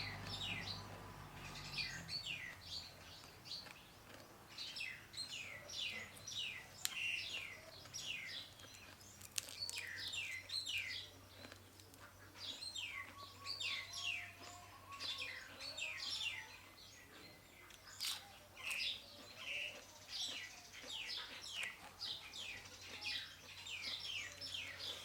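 Small birds chirping in quick runs of short, falling notes, over and over, with a few sharp clicks and a steady low hum underneath.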